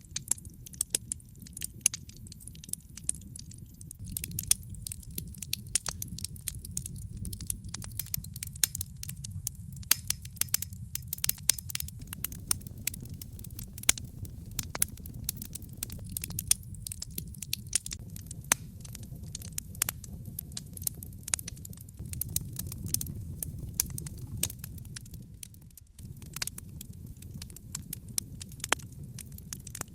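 Wood fire burning in a fireplace: logs crackling with frequent, irregular sharp pops and snaps over a steady low rumble of the flames.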